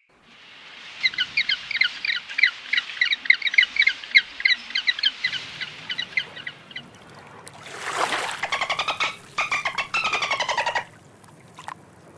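Bird calls: a fast run of short, high chirps, about five a second, for several seconds, then a harsher call with rapid pulses that falls slightly in pitch, about eight to eleven seconds in.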